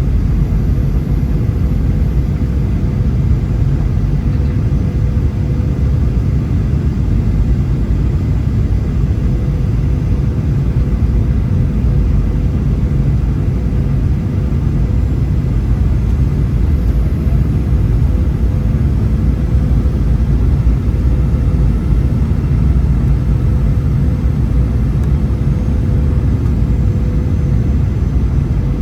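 Steady low rumble of a Boeing 737's engines and airflow heard inside the passenger cabin, with a faint steady hum running through it.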